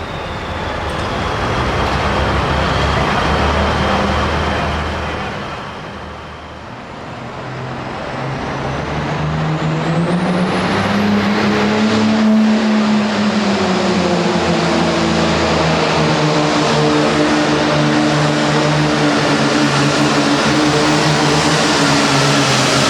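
Turbocharged diesel super farm pulling tractor running hard. The engine eases off about six seconds in, then climbs again with a rising high whistle and holds at high revs.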